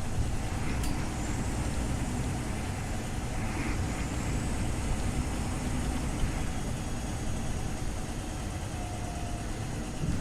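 Scania OmniLink CL94UB city bus running, a steady low engine and road rumble. A sharp click comes about a second in, and a faint high whine rises twice.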